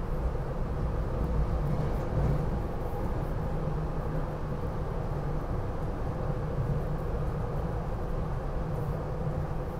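Steady low rumble inside a SEPTA Regional Rail passenger car as the train runs along the line, with a faint steady hum above it.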